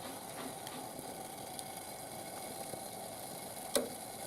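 Wood fire burning in a barbecue grill: a steady hiss with scattered small crackles and one sharp pop near the end.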